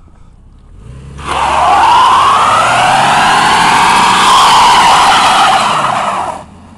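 Dodge pickup truck doing a burnout: the engine revs up about a second in and the rear tyres spin and squeal loudly for about five seconds, the squeal's pitch rising and falling, then it stops suddenly.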